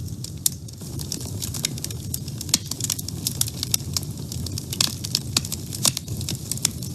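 Wood fire burning in a woodstove: irregular sharp crackles and pops several times a second over a steady low rumble of flames.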